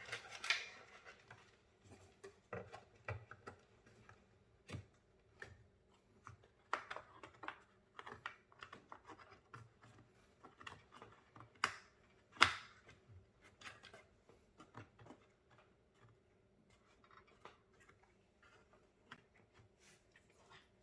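Small scattered clicks, taps and scrapes from cables and connectors being handled and plugged in inside a desktop PC case, with the sharpest clicks a little before the middle and about twelve seconds in.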